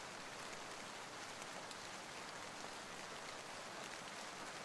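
Recorded rain ambience: steady rain falling, a faint, even hiss with no distinct drops or thunder.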